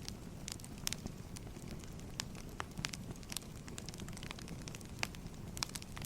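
Wood fire crackling: irregular sharp pops and snaps, several a second, over a steady low rumble of burning logs.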